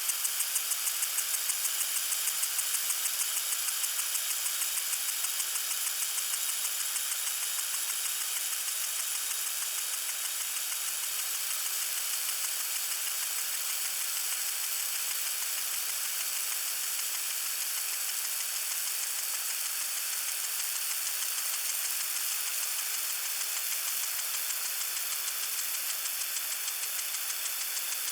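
Lawn sprinkler spraying water: a steady high hiss, with a fast, even pulsing over the first few seconds that fades out.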